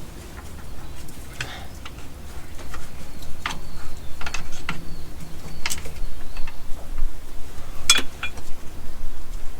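Scattered metallic clinks and knocks of hand tools and steel parts being handled while working on a truck PTO, about half a dozen separate hits, the loudest about eight seconds in, over a low steady rumble.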